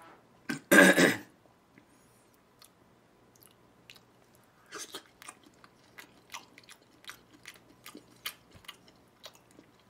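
A person chewing a slice of raw beef sashimi at close range. There is a short loud mouth sound about a second in, then from about five seconds in a run of soft, wet chewing clicks, several a second.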